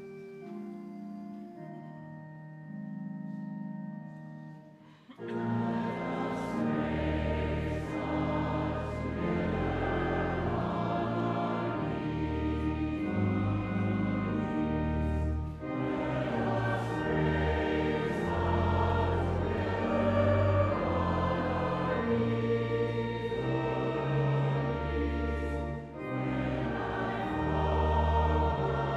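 Choir singing a sung liturgical response with instrumental accompaniment. It begins with soft held chords and grows fuller and louder about five seconds in as the singing comes in.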